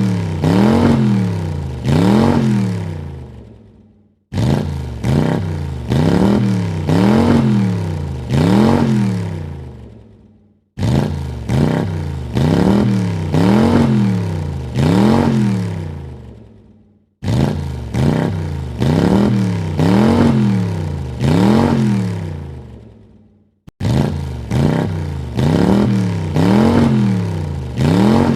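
Car engine revved in three quick throttle blips, each rising and falling in pitch, then fading out. The same short clip plays again about every six and a half seconds, starting abruptly each time.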